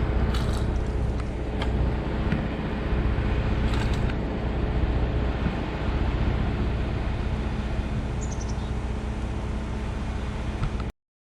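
National 1500 series boom-truck crane's engine running steadily with a low hum, with a few faint clicks. The sound cuts off abruptly near the end.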